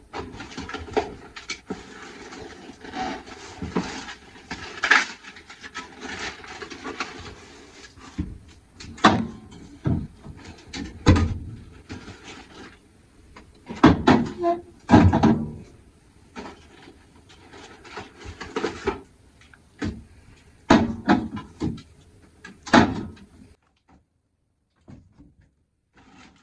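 Handling noises: irregular knocks, clunks and rubbing as objects are moved about, stopping a few seconds before the end.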